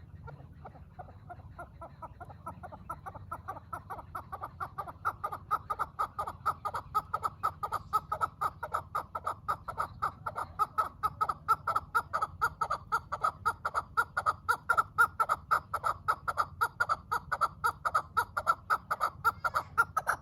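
Chukar partridge calling a long, rapid series of clucking chuk notes, about three or four a second, growing louder over the first dozen seconds.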